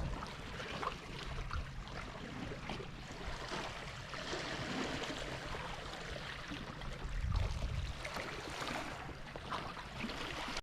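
Seaside ambience of sea water sloshing and splashing, with a low rumble that swells about seven seconds in.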